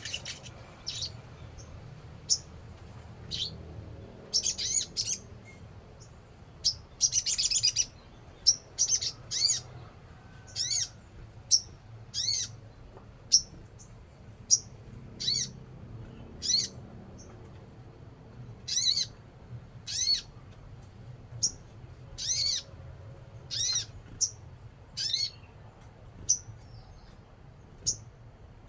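A sogon songbird in full song: a string of short, high, sharp chirps, about one a second, with a longer burst of calls a few seconds in.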